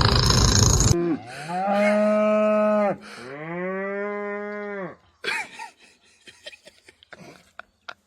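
Two long, low animal calls, each held steady and then dropping in pitch at the end, the second quieter than the first. Before them, a loud rushing noise cuts off about a second in, and a few short clicks and knocks follow the calls.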